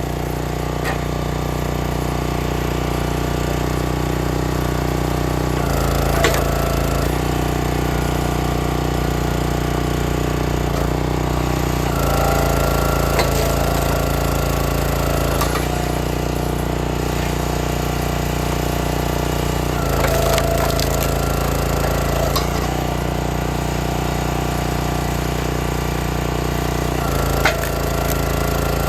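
Gas-engine log splitter running steadily, its note shifting several times as it works, with sharp cracks of walnut rounds splitting.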